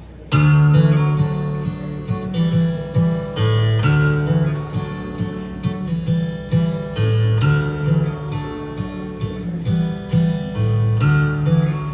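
Bluegrass string band playing a song's instrumental intro, led by acoustic guitar with plucked and strummed strings over a bass line. It starts abruptly just after the beginning.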